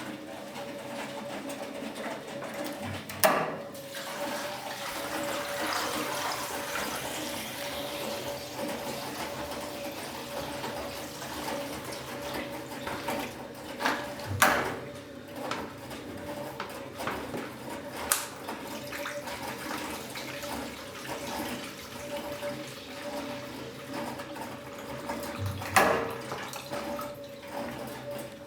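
1956 Eudora B09 semi-automatic washing machine running with water in the tub: a steady motor hum over water sloshing, with a sharp knock about every eleven seconds, three times.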